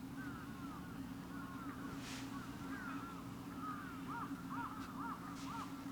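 Birds calling over and over in many short, arched notes that overlap, with a steady low hum underneath.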